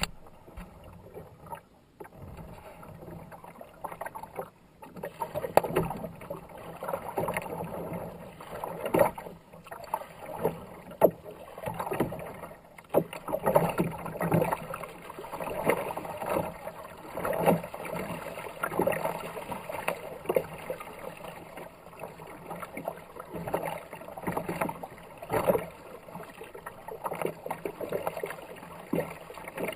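Kayak paddle blades dipping and splashing in river water, about one stroke a second, starting a few seconds in after a quieter stretch.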